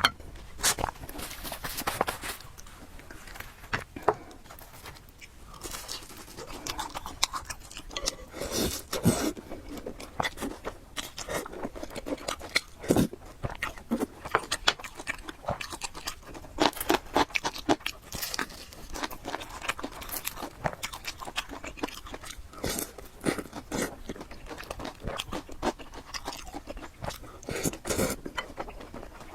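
Close-miked eating sounds of a person chewing and biting noodles and fried egg, with many irregular wet clicks, smacks and crunches.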